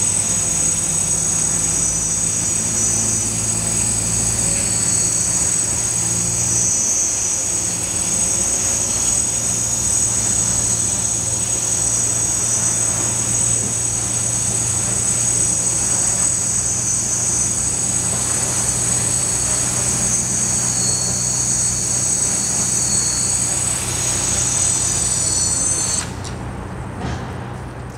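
Multirotor hexacopter's six brushless motors and propellers running steadily with a high electric whine over a low hum, the pitch wavering slightly. The sound drops sharply about two seconds before the end.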